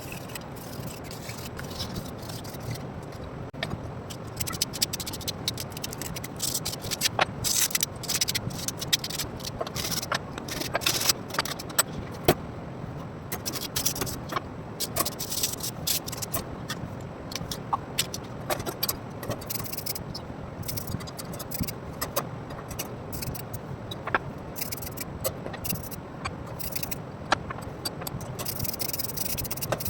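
Hand work on table fan parts: scraping and rubbing, with many scattered sharp clicks and taps.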